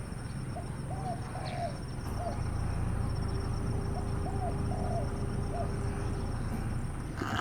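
A bird's soft low call, a phrase of about four short notes given twice, a few seconds apart, over steady low background noise.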